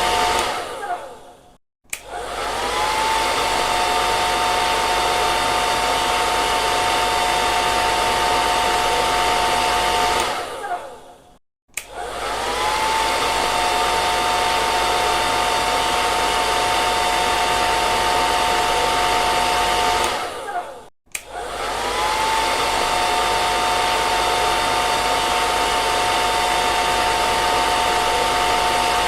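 Hair dryer running with a steady rush of air and a high motor whine, switched off and on again about every nine to ten seconds: each time the whine falls away to a second of silence, then rises again as the motor spins back up.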